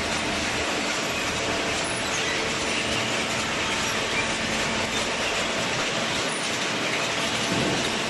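Waste paper baler machine running: a steady, even mechanical noise with a faint underlying hum.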